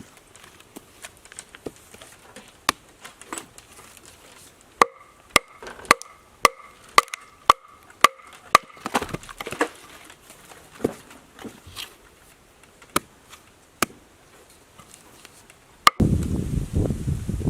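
Wood being chopped with a hand tool: a run of sharp, evenly spaced blows about two a second with a brief ringing, then scattered single strikes. Near the end it cuts to a louder low rustling noise.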